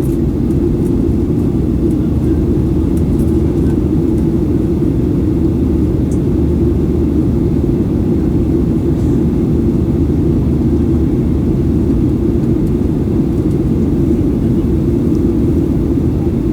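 Steady low roar inside the cabin of a Boeing 737-800 in flight: its CFM56-7B jet engines and the rushing airflow, unchanging throughout, with a few faint ticks.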